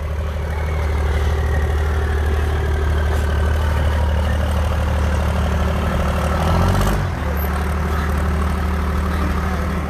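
Diesel pulling truck's engine running hard under load while pulling the sled, with a high whine that slowly falls in pitch. About seven seconds in the engine note climbs briefly, then drops suddenly as the engine lets off at the end of the pull, and it keeps running at a lower note.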